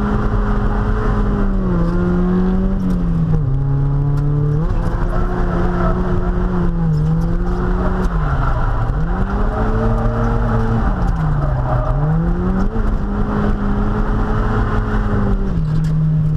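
Stock Mazda Miata's 1.8-litre four-cylinder engine revving high through a drift. Its pitch dips and climbs back several times, then settles to a lower note near the end.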